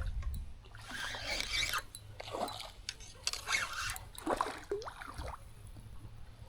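Light water splashing and trickling around a kayak, in a few irregular spells.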